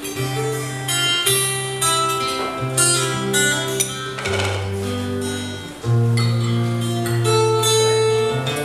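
Acoustic guitar playing a slow song's instrumental intro: plucked chords that change about every second, over held low bass notes.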